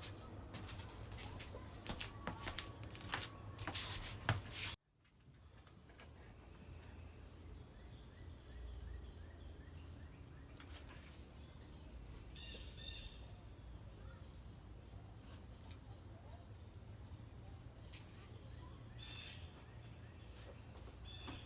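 For about the first five seconds, scattered clicks and knocks over a low hum, cut off abruptly. Then a faint ambience: a steady high-pitched whine over a low rumble, with a few faint chirps.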